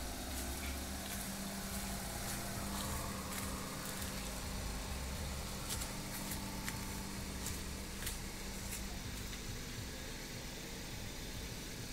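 Car engine idling: a steady low hum, with faint clicks now and then.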